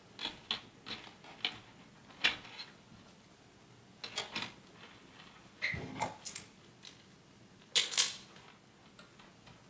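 Scattered light clicks and taps of small parts and tools being handled, with a few sharper knocks about two, six and eight seconds in.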